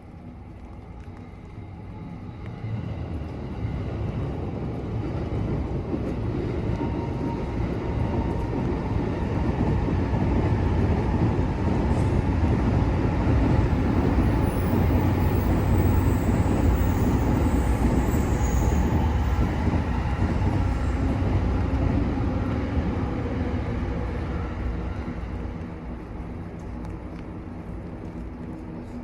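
JR Saikyo Line electric commuter train passing a level crossing: the rumble of wheels on the rails builds over several seconds, stays loud for about a dozen seconds, then fades away.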